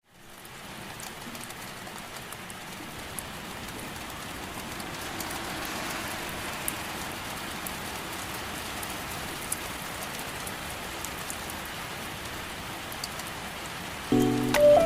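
Steady rain falling, with scattered single drops ticking, fading in at the start. Music begins near the end.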